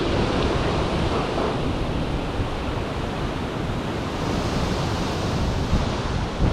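Strong gusty wind rushing through the leaves and branches of a valley oak, a steady roaring hiss, with wind buffeting the microphone as a low rumble.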